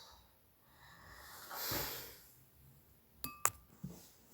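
Two quick clinks with a short bright ring, like glass being tapped, followed by a few faint ticks; before them a soft breathy rush.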